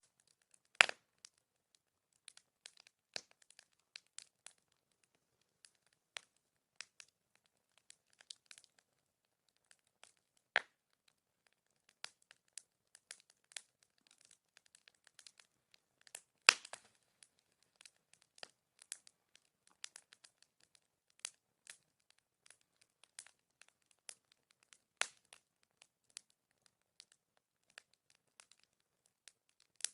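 Bonfire crackling: irregular sharp pops and snaps, a few much louder than the rest, the loudest about a second in and another about halfway through.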